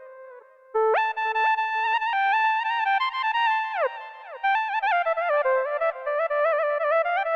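Xfer Serum software synthesizer playing a solo lead melody in Balkan style, with fast ornamented runs and sliding pitch bends. The phrase starts about a second in after a short quiet gap.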